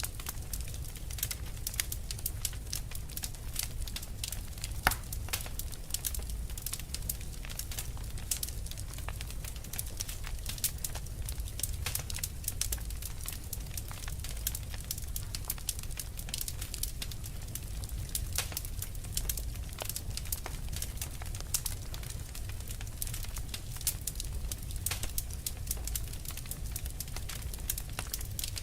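Wood fire burning with dense, irregular crackling and small pops over a steady low rumble, with one louder pop about five seconds in.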